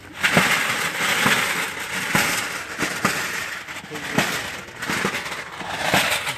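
A hand tool strikes hard road material about once a second, with gritty crunching and scraping between the blows. This is typical of digging out a test hole in a road's base layer for a density test.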